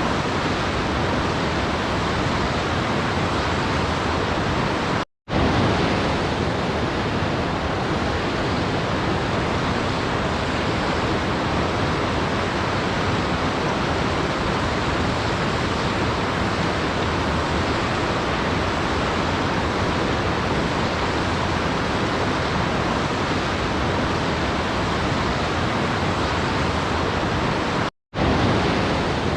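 Steady, even rushing of a waterfall, with no distinct splashes or changes. It drops out for a split second twice, about five seconds in and near the end, where the recording loops.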